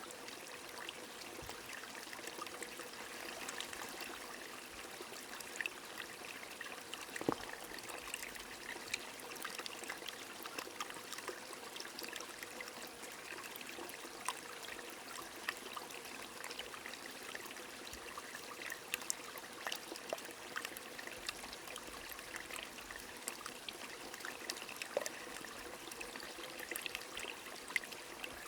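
A small stream trickling and splashing steadily, with rain falling and many scattered raindrop ticks.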